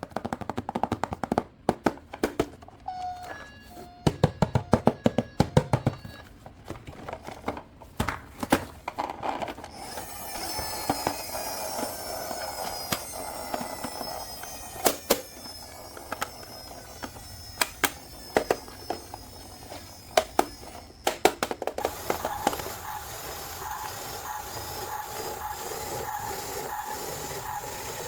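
A run of sharp clicks and knocks, as of plastic toy parts being handled. After about ten seconds a steady electronic toy sound with music-like tones takes over, settling into a held tone near the end.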